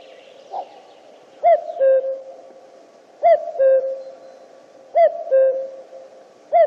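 Male common cuckoo calling its two-note "cuck-oo", a higher note falling to a lower one. The call repeats about every second and three-quarters: three full calls, with a fourth starting near the end.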